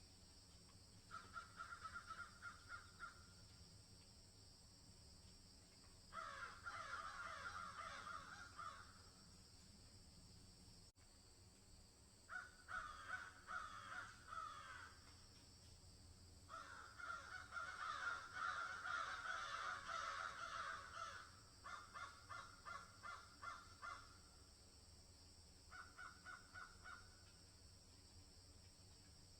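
Animal calls in bouts of rapid, repeated notes, about six bouts with short pauses between them; the longest comes just past the middle.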